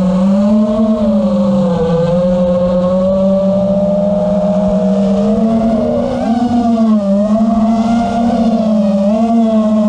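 A motor running steadily with a strong buzzing hum whose pitch wavers slightly up and down, with no big revs or cut-offs.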